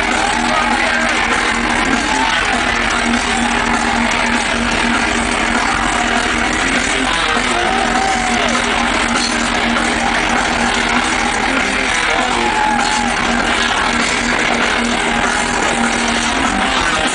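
Loud, distorted rock music led by electric guitar. A low held note sounds under it throughout and cuts off shortly before the end.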